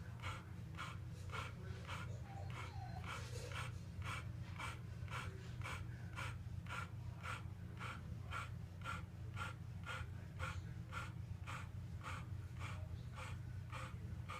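Dog panting steadily, about two to three quick breaths a second, over a constant low hum.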